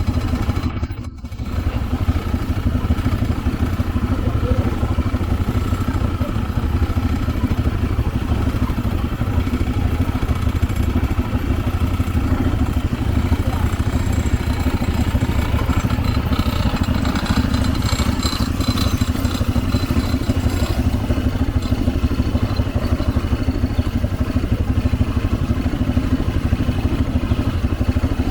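All-terrain vehicle (ATV) engine running steadily, with a brief dip about a second in.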